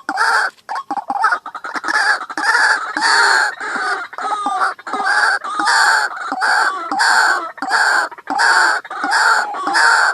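White-breasted waterhen calling: a harsh call note repeated about twice a second, a recording of the kind played as a lure to draw the birds in.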